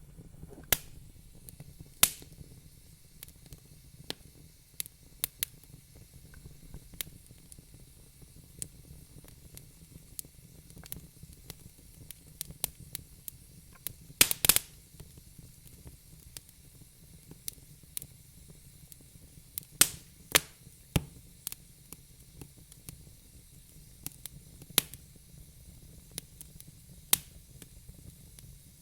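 Fire in a fireplace crackling: scattered sharp pops and snaps at irregular intervals over a faint low rumble, with a quick run of louder pops about halfway through.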